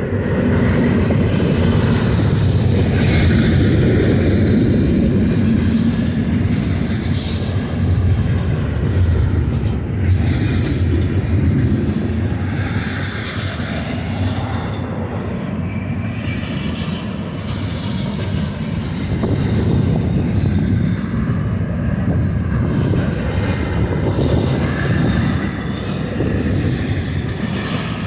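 Freight train rolling past, a steady loud rumble of the cars on the rails with scattered higher wheel and rail noises.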